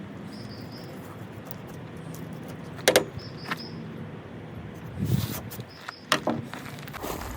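Several sharp knocks and clatters of wooden pieces being handled, scattered through a few seconds, over a steady background hiss. A short high chirp sounds a few times.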